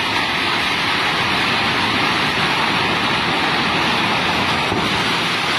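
Swollen Swat River in flood: a loud, steady rush of fast-flowing water.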